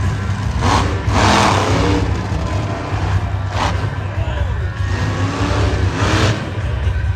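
Monster truck engine running loud with a steady deep rumble and revving in several surges.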